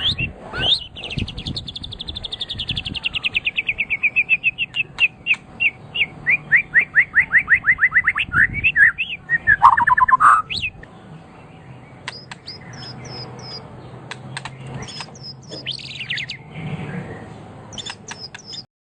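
A songbird singing: a long, fast run of repeated notes, ending in a lower slurred phrase about ten seconds in, then sparser high-pitched chips and short phrases. The sound cuts off abruptly near the end.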